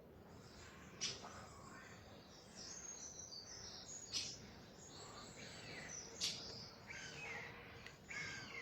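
Great spotted woodpecker giving three sharp single 'kik' calls, a few seconds apart, among the chirping song of other small birds over a faint steady background hum.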